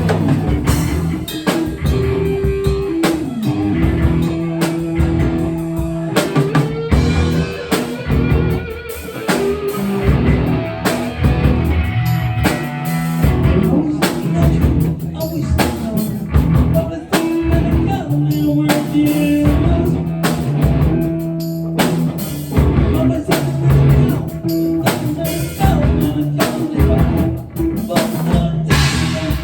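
Rock music with a full drum kit and guitars.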